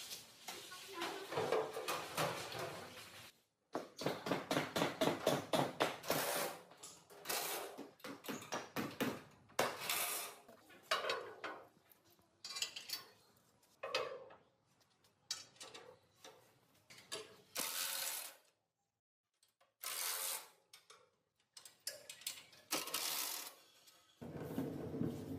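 Metal hand-tool and machine-part work: clanks, scrapes and knocks, with a run of rapid, even taps or ratchet clicks a few seconds in, in short clips that cut off suddenly.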